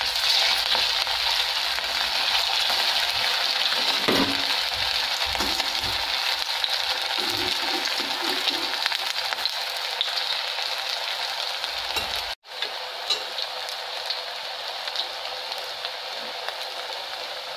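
Potato tikkis shallow-frying in hot oil in a steel kadhai: a steady sizzle. About three quarters of the way through it cuts out for an instant and comes back a little quieter.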